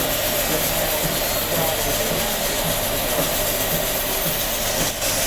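Steady noise of a motor-driven tool running without a break, with a short dip in level near the end.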